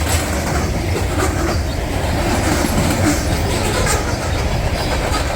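Train rolling past close by: a steady loud rumble of wheels on rail, with irregular clicks of the wheels over rail joints.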